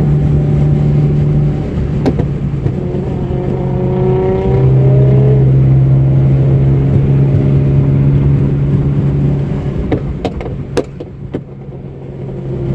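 Car engine running with a steady drone, rising in pitch as it accelerates about three to five seconds in, with a few sharp clicks near the end.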